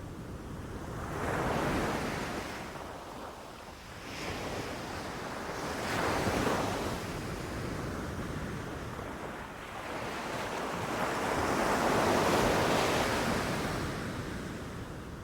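Ocean waves breaking on a beach, three swells of surf rising and falling, the longest and loudest near the end, with a low steady wind rumble underneath.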